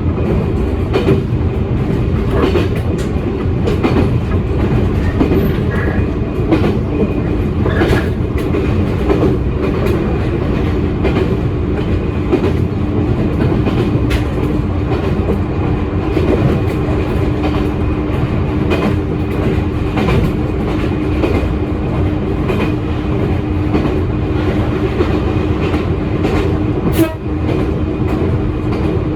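Electric commuter train running along the line, with a steady rumble and wheels clicking over rail joints at irregular intervals. A steady droning tone sets in about a fifth of the way in and holds to the end.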